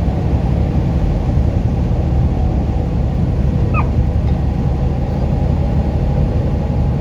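Semi-truck cab at highway speed: steady engine drone and road rumble. A brief high rising chirp sounds about four seconds in.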